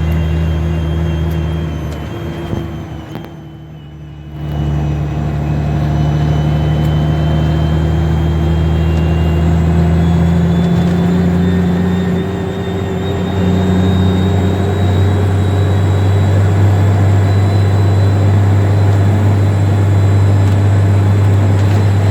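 Freightliner dump truck's diesel engine running steadily, its low drone rising slowly in pitch; the sound drops away briefly about three seconds in, then comes back.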